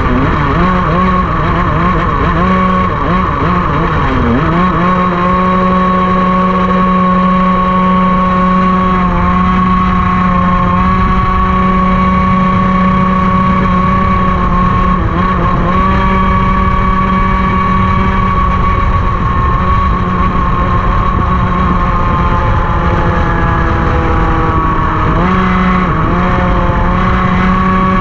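Racing kart engine running at high, nearly constant revs at full throttle on a long stretch of track. The pitch wavers and shifts over the first few seconds, then holds steady, drops briefly near the end as the throttle comes off, and climbs back up.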